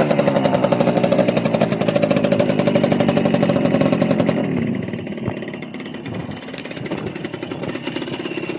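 Small motorbike engine running at steady revs, then easing off about four and a half seconds in and dropping to a lower, quieter idle.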